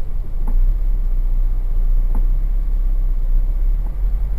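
Cold Toyota 1ZZ-FE 1.8-litre four-cylinder engine running at a fast idle, heard from inside the cabin, with the revs climbing on their own toward 2000 rpm. This is part of the unstable cold-idle behaviour after a long stand in frost, where the revs hunt and the engine keeps trying to stall.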